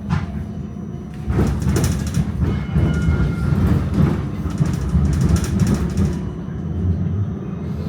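Tram running along its tracks with a steady low rumble. From about a second and a half in to about six seconds in, a louder stretch of rattling clatter from the wheels and car body, with a faint brief squeal in the middle.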